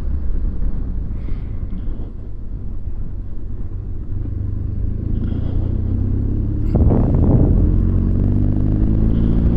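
BMW R1200GS flat-twin engine running under way with wind noise, heard from a camera on the bike. About seven seconds in the engine gets louder and its note rises as the bike accelerates.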